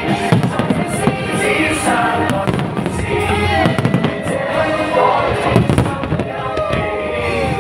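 Aerial fireworks bursting in a rapid run of bangs, with music playing over them.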